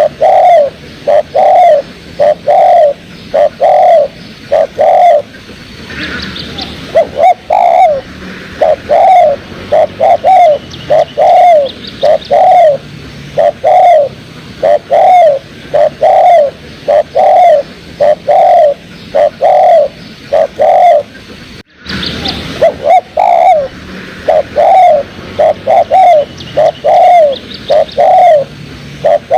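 Spotted dove (tekukur) cooing: a long run of low, arched coos, about one and a half a second, in repeated phrases with short pauses between them.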